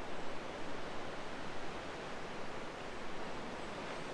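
Distant Pacific Ocean surf: a steady, even wash of waves breaking against the rocks below.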